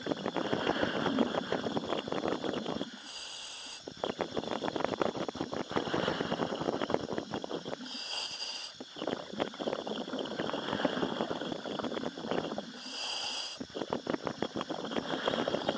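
A commercial diver breathing in a helmet: a short hiss of the demand valve on each inhalation, three times, each followed by a longer crackling, bubbling exhalation, in a steady cycle of about five seconds.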